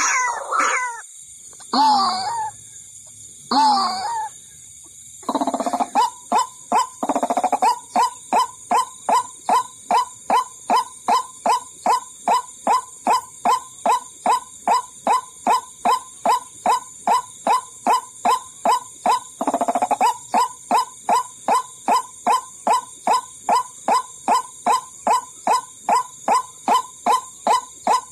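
White-breasted waterhen (ruak-ruak) calls used as a lure. A few separate calls come first, then a long steady series of short notes at about two a second, with louder fuller calls over it twice.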